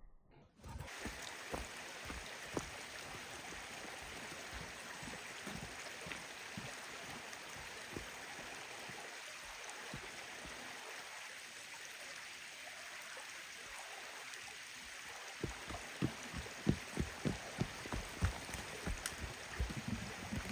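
Creek water rushing steadily, with repeated low thumps that come thicker and louder over the last few seconds.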